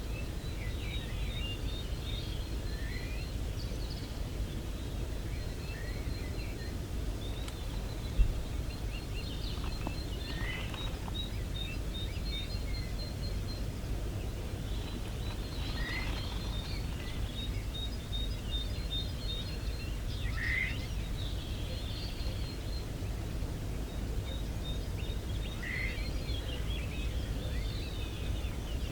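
Outdoor ambience of small birds singing and calling: fast trills of quick high notes and several short falling chirps, over a steady low rumble. A single sharp knock about eight seconds in.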